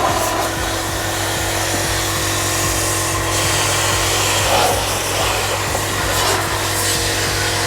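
Portable electric high-pressure car washer running with a steady hum while its spray gun jets water with a constant hiss, blasting dirt out of a car tyre.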